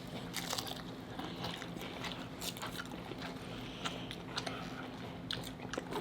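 Close-up chewing and biting of crunchy hard-shell tacos, with irregular crisp crunches scattered through.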